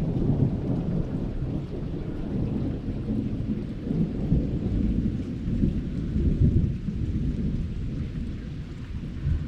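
Rolling thunder rumbling over heavy, steady rain. The rumble swells about four seconds in and again a little past six seconds.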